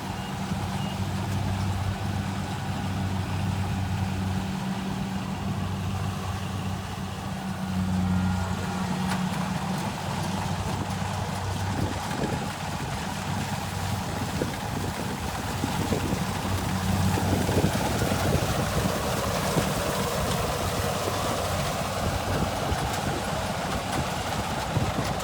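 Kubota combine rice harvester's diesel engine running with a steady low hum. From about the middle the sound turns rougher and noisier.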